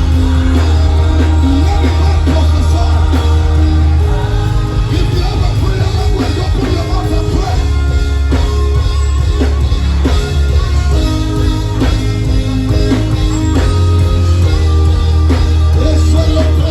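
Live band music with heavy bass, guitar and drums, with singing over it.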